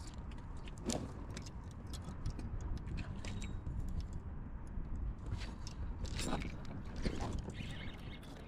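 Small bass being reeled in and handled from a kayak: a run of light irregular clicks from the fishing reel and tackle over a low steady rumble, with a few louder sharp knocks or splashes about a second in and again after six and seven seconds.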